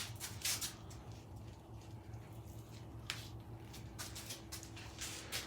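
Light clicks and rustles of metal parts and hardware being handled, a few separate knocks over a low steady hum.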